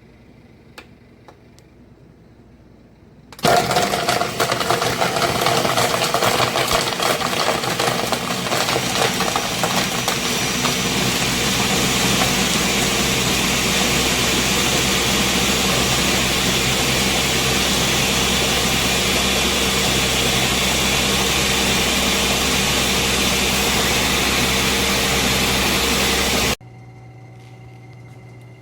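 Ninja Professional blender's 1000-watt motor switching on abruptly about three seconds in and running at high speed for about twenty-three seconds, uneven for the first several seconds and then steady, before cutting off suddenly.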